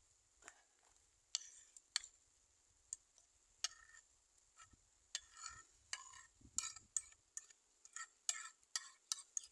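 Irregular clinks and scrapes of a utensil working against cookware, like stirring food in a pan, about twenty short strokes, unevenly spaced.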